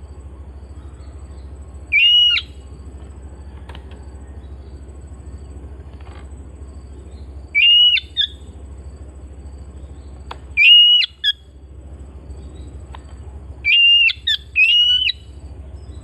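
Oriental magpie-robin (kacer) giving a short whistled call five times at irregular intervals, the last two in quick succession, over a steady low hum.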